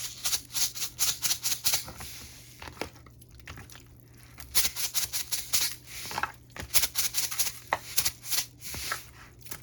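Salt shaker being shaken over raw chicken, the grains rattling in two runs of quick shakes about five a second, broken by a pause of a couple of seconds.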